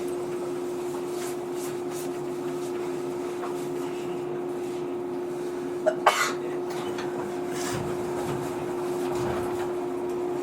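JR 115 series electric train standing at a station with its doors open, its onboard equipment giving a steady low hum. About six seconds in, a person gives a single short cough.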